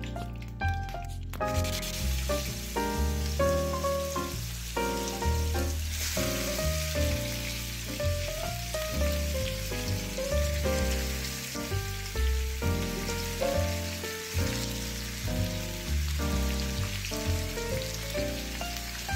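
Marinated chicken pieces sizzling as they fry in hot oil in a nonstick pan; the sizzle sets in about a second and a half in and grows stronger around six seconds in. Background music with a steady beat plays throughout.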